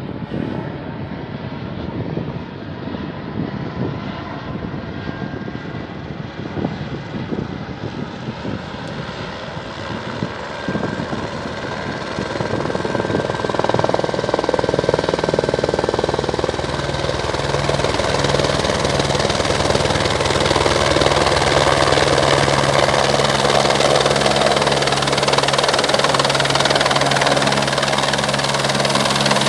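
Helicopter on its landing approach. The rotor and engine sound grows louder about halfway through as it comes close, then settles into a steady, loud drone with a low pitched hum.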